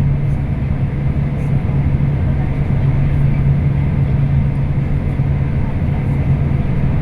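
Scania K340IB bus engine running at a steady speed under way: a constant low drone over road noise.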